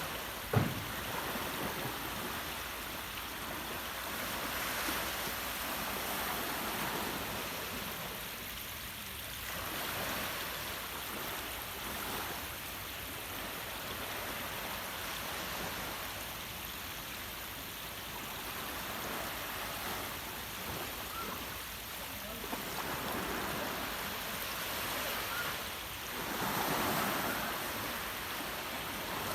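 Small sea waves washing on a beach, swelling and easing every few seconds, with a brief low thump about half a second in.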